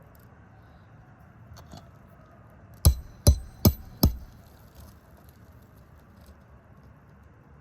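Four quick hammer blows with a short metallic ring, driving a roofing nail home through a shingle snake repair tool.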